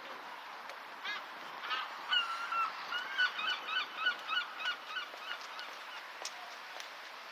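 A large bird calling: a drawn-out honking note, then a quick series of short calls, about three a second, that die away around five seconds in.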